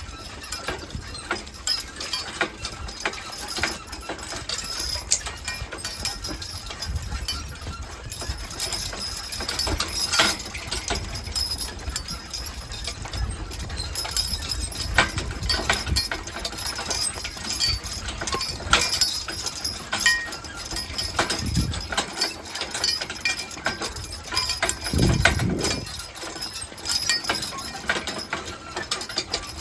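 Team of draft horses walking, hooves clopping with harness hardware jingling and the rig they pull rattling along. Two louder low rumbles come about three seconds apart in the last third.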